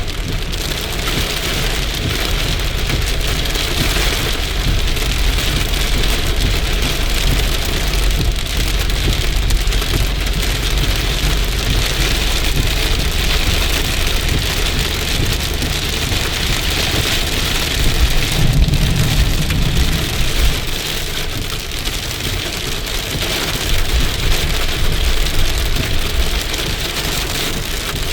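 Heavy rain falling steadily, with a dense hiss of drops and a constant low rumble; the rumble swells briefly about two-thirds of the way through.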